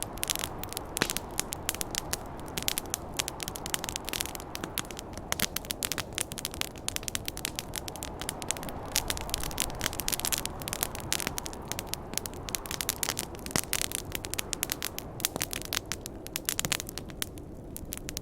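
Campfire crackling and popping, with many sharp snaps a second, over a steady low rushing of snowstorm wind. The crackles thin out a little near the end.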